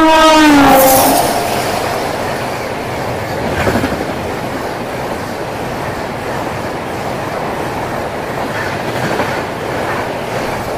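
Train horn sounding loud and then dropping in pitch as the locomotive passes, ending about a second in, followed by the steady rumble and wheel clatter of a train passing at speed.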